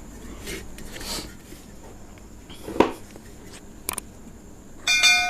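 Quiet eating sounds at a meal, with a couple of light clicks, then near the end a metal dish is struck and rings out with several clear tones that fade over about a second.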